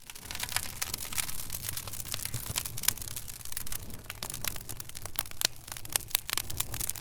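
Wood fire crackling in a fireplace: dense, irregular pops and snaps over a low steady rumble of burning.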